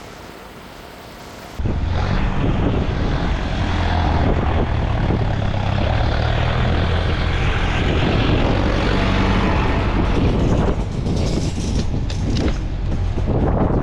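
Loud, steady engine drone with rushing wind noise, cutting in abruptly about a second and a half in.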